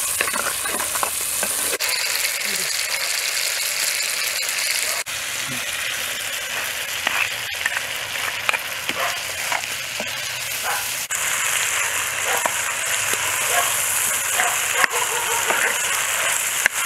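Prawns and tomatoes sizzling in hot oil in a clay pot, a steady hiss with scattered crackles and pops, while a wooden-handled ladle stirs them. Soya chunks (meal maker) go in partway through.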